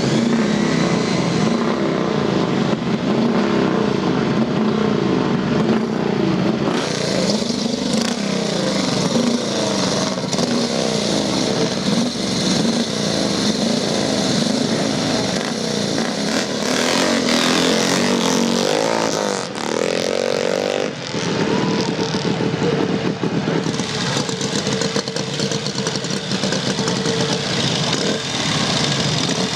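Motorcycle engines running and revving, their pitch rising and falling, with one short rising rev about two-thirds of the way through.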